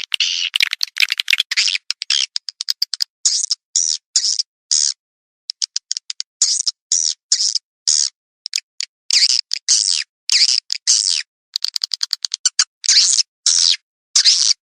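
Swiftlets calling: fast trains of dry clicks alternating with short buzzy chirps, repeated with brief pauses. This is a swiftlet lure call, a recording played at swiftlet nest houses to draw the birds in.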